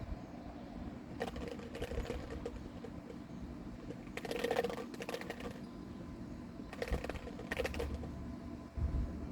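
Several short bursts of clicking and rattling over a low steady rumble.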